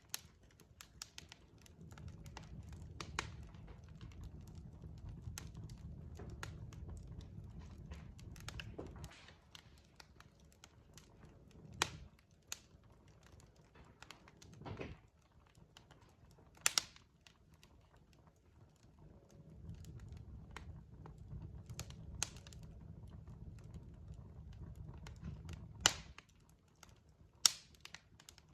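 Log fire crackling: irregular sharp pops and snaps, a few much louder than the rest, over a low rumble of burning that fades out for a while in the middle and returns.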